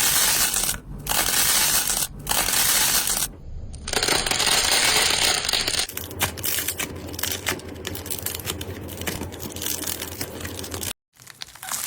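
Slime being squeezed and pressed, giving dense crackling and popping in several stretches broken by short gaps. The sound cuts out suddenly near the end and starts again.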